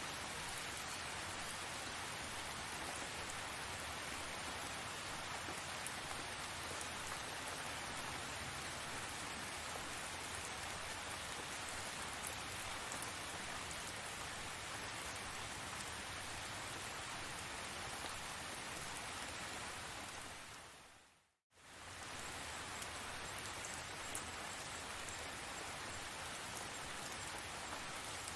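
Steady rain falling, an even hiss with scattered drop ticks. About three quarters of the way through it fades out to silence for a moment and fades back in.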